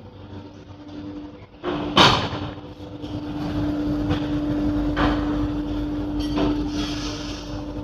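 Workshop machinery running with a steady hum, a loud metallic clang about two seconds in, and several lighter knocks after it.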